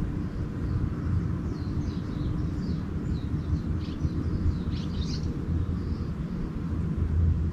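Small birds chirping in a quick run of high twittering calls, bunched from about one and a half to five and a half seconds in, over a steady low rumble.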